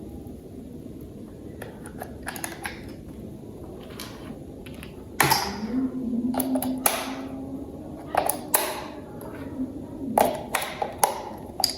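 Plastic toy parts being handled and fitted together: scattered clicks and knocks, busiest in the middle, with a faint steady hum under them for a few seconds.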